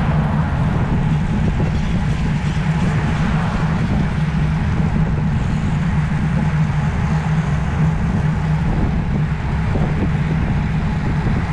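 Steady wind rushing over the microphone of a moving road bicycle, with a constant low hum of tyre and road noise.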